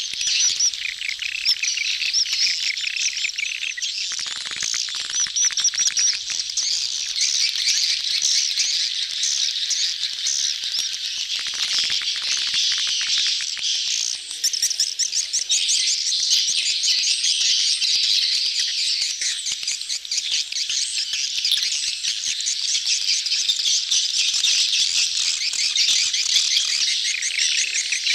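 A dense crowd of swiftlets twittering: fast, high chirps overlapping without pause. This is the crowded mating chatter of a swiftlet colony, used as a lure call to draw swiftlets into a nesting house.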